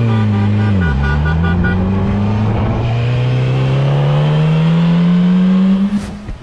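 A vehicle engine accelerating hard. The revs drop at a gear change about a second in, then climb steadily for about five seconds and cut off near the end.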